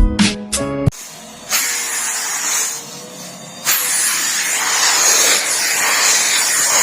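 Intro music stops about a second in. A Numatic Henry vacuum cleaner then runs, vacuuming up salt: a steady hiss that dips for about a second, then holds steady and louder from about four seconds in.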